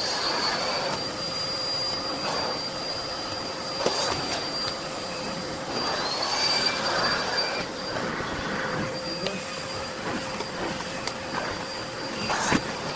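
Miele Blizzard CX1 bagless vacuum cleaner running on a hard floor, in a sped-up recording. Its motor gives a steady high whine that glides up in pitch as it picks up speed, once about six seconds in, over a rushing suction noise that swells and fades as the floor tool is pushed about.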